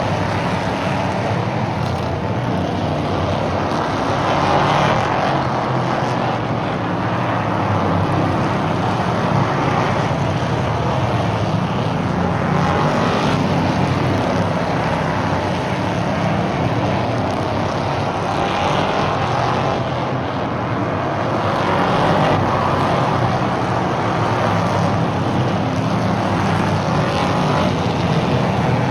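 RS1 series stock car engines racing around a short oval, a continuous loud engine noise that swells and fades every few seconds as the cars come round.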